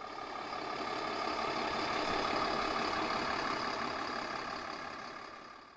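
A heavy vehicle's engine running with road noise, a steady noisy hum that swells up over the first couple of seconds and fades away near the end.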